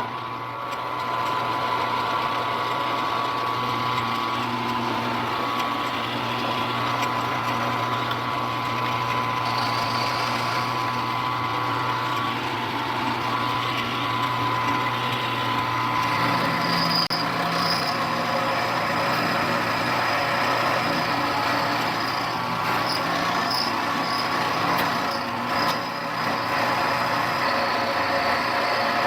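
Milling machine running at about 825 RPM with an end mill roughing out a square opening in a mini lathe headstock. It is a steady motor whine and hum with cutting noise, and the sound shifts a little about halfway through.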